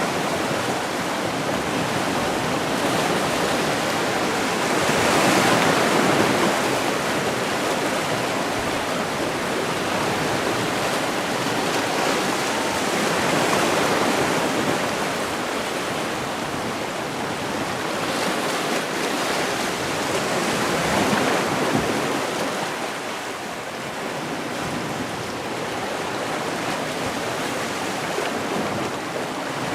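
Sea waves washing ashore: a steady surf hiss that swells three times, about eight seconds apart.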